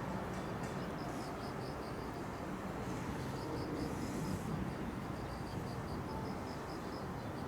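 An insect chirping in a steady run of short high pulses, about four a second, over a steady low outdoor rumble.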